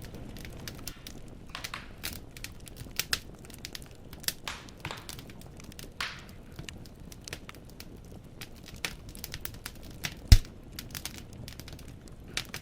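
Wood fire in a fireplace crackling: irregular sharp snaps and pops of burning logs over a low steady rumble, with one loud pop about ten seconds in.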